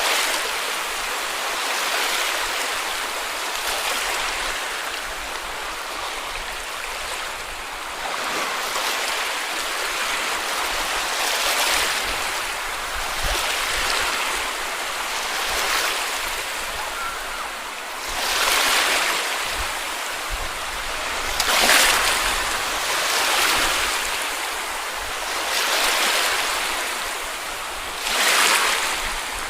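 Small sea waves breaking and washing up the beach: a continuous wash that swells every few seconds, with several stronger breaks in the second half.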